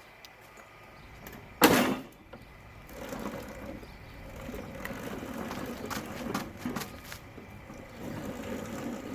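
A single loud thump about a second and a half in, then a Craftsman track-drive snowblower being pushed by hand, its tracks rolling with uneven rattling and clicking. The machine is hard to push.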